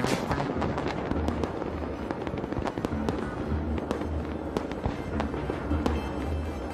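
Fireworks going off, many sharp cracks and bangs in quick succession, over music with a heavy bass.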